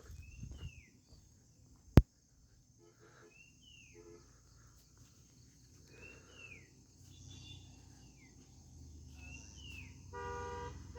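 A bird calling over and over, a short swooping whistle repeated every couple of seconds, over a low hiss of wind. A sharp click sounds about two seconds in, and near the end a pulsing horn-like tone comes in.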